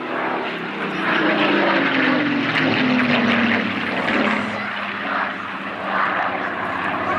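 Supermarine Spitfire's piston engine droning on a flypast, its pitch falling over the first few seconds as it passes, then running on steadily.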